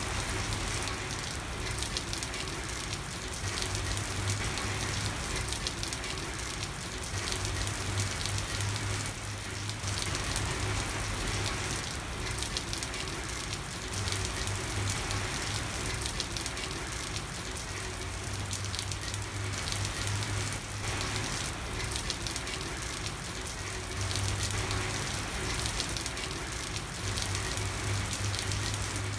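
Steady rain falling on a street, an even hiss of drops with no pauses, under a low hum that swells and fades every few seconds.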